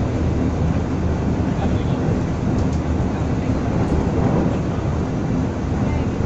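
Steady running noise of a passenger train heard from inside the carriage, with wheels on the rails at speed.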